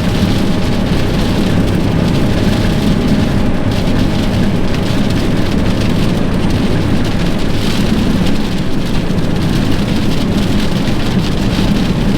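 Heavy rain hitting a vehicle driving through a thunderstorm, a dense steady patter over a constant low road and engine rumble.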